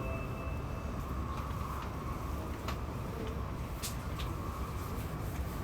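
Running noise inside an N700-series Shinkansen passenger car: a steady low rumble with a few faint clicks.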